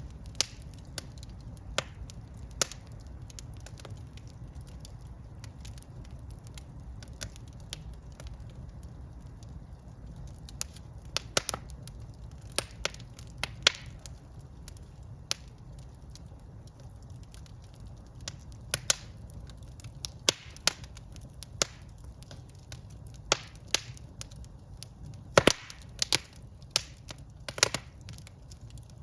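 Wood fire burning in a fireplace: a steady low rumble of the flames with irregular sharp crackles and pops, bunching into quick clusters near the middle and near the end.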